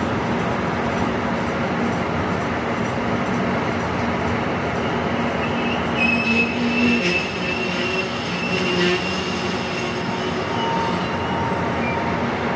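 Korail E-train passenger cars rolling past along a station platform, a steady rumble of wheels on rail. About halfway through, a high wheel squeal rises over it for a few seconds.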